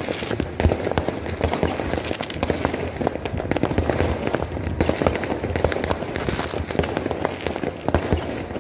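Fireworks and firecrackers going off in a dense, unbroken crackle of many overlapping bangs and pops.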